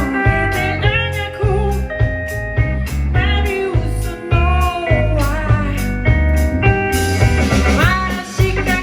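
Live band playing a blues-rock number: guitar lines with bent notes over a heavy bass and steady drums.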